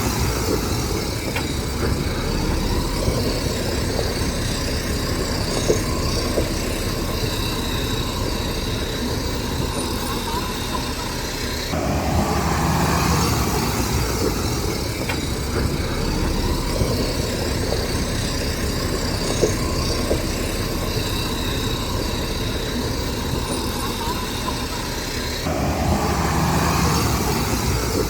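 Crawler bulldozer (Shantui DH17C3) working: the diesel engine runs steadily under load, with scattered sharp metallic clanks and a couple of louder knocks.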